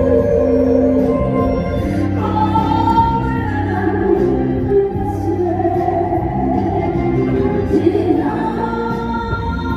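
A sung song with instrumental accompaniment: long held vocal notes over a steady backing track.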